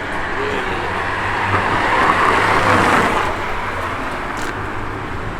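A car engine running, swelling louder over the first three seconds and then easing off, as a car drives past, over a steady low engine rumble.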